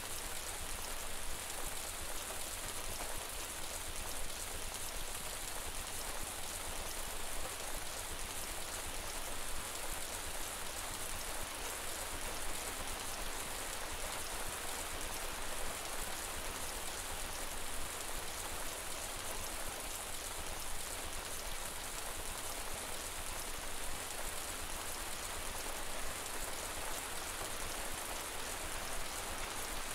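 Steady rain, an even hiss of many drops pattering on leaves, with now and then a slightly louder drip.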